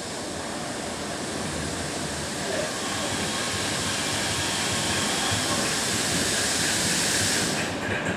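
Approaching train: a rushing, hissing noise that grows steadily louder, then wheels start clicking over rail joints near the end as it draws level.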